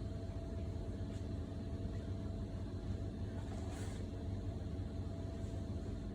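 A steady low machine hum with a few fixed tones, and a faint brief hiss about four seconds in.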